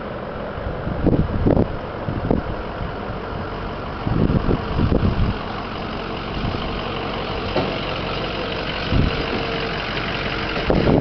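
Ford F350's 7.3-litre Powerstroke turbo diesel V8 running, with low rumbles swelling and fading several times.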